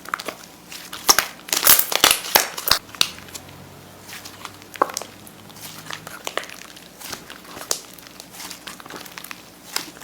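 Slime being squeezed and pressed by hand, giving a dense run of crackling and crinkling for a couple of seconds about a second in, then sparser clicks and pops.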